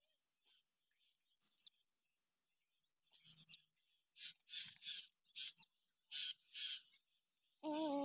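Birds chirping and twittering: a few high chirps, then a quick run of short calls and rising sweeps. Near the end a held, wavering tone comes in.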